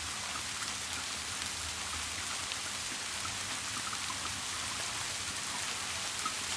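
Steady rain: an even hiss with scattered individual drops landing.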